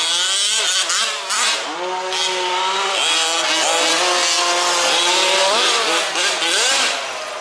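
Several 1/5-scale RC off-road trucks' small two-stroke petrol engines racing, with overlapping engine notes rising and falling as they accelerate and back off.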